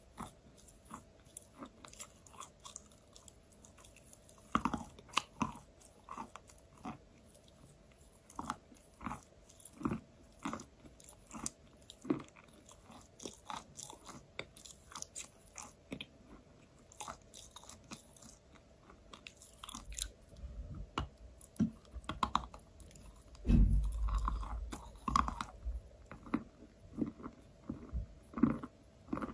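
Close-miked chewing of a chunk of chalk: irregular, dry crunches and mouth sounds as it breaks up between the teeth. There is a louder, deeper stretch of crunching about two-thirds of the way through.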